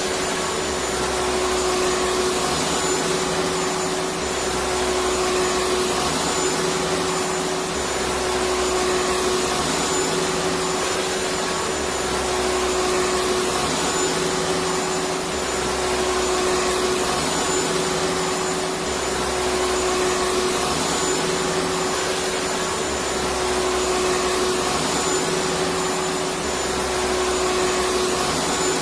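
Electric vacuum cleaner running steadily with a constant hum, and a low throb that swells and fades about every three to four seconds.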